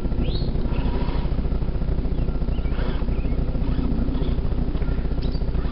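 Steady low rumble of wind buffeting the microphone, with birds chirping briefly several times.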